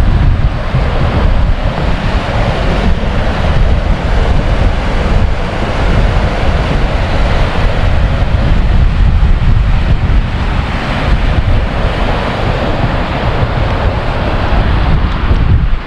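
Strong wind blowing across the microphone: a heavy low buffeting with a steady rushing hiss over it.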